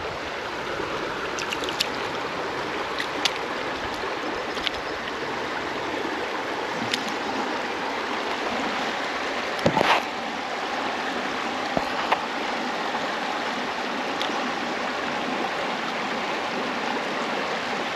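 Creek water running over rocks, a steady rushing and burbling, with a few faint knocks and one louder thump about ten seconds in.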